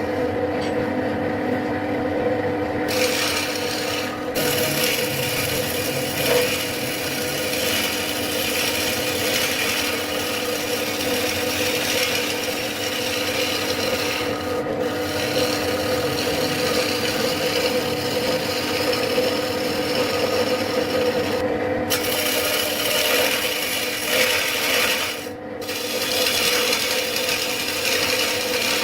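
Wood being abraded on a spinning lathe: a steady rubbing, rasping sound over a low machine hum. The higher part of the sound drops out briefly a few times.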